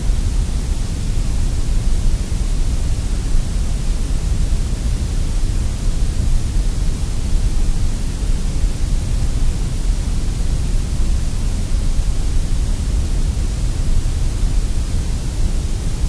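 Sandblaster nozzle in a blast cabinet firing abrasive media at a pressed-steel toy car body, a steady hiss and low rumble of compressed air and grit stripping paint and rust, unbroken throughout.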